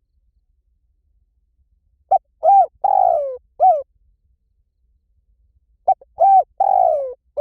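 Spotted dove cooing: two matching phrases, each of four notes: two short coos, a long coo that falls in pitch, and a short final coo.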